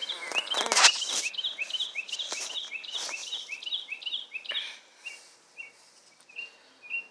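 Bird chirping: an even run of short high chirps, about three a second, that changes after about five seconds to slower, slightly lower chirps. Rustling and knocks run over the first half, loudest about a second in.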